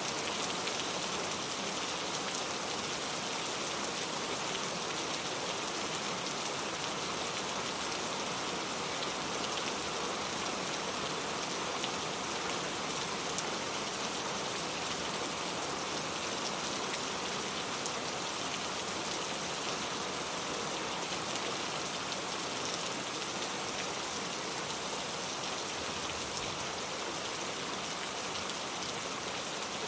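Steady rain falling, an even hiss of many small drops hitting a surface, with no pauses or changes.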